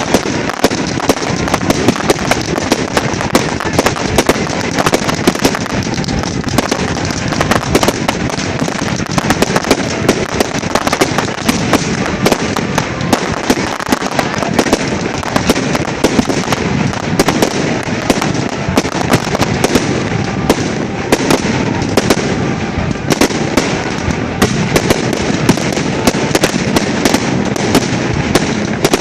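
Fireworks grand finale: a dense, unbroken barrage of shell bursts and crackling, with many sharp bangs in quick succession.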